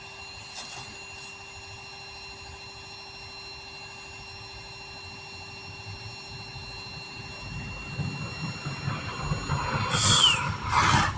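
A vehicle approaching and speeding past on the road, building from about eight seconds in and loudest around ten seconds, with a falling whine as it goes by. Before that, a steady low hum.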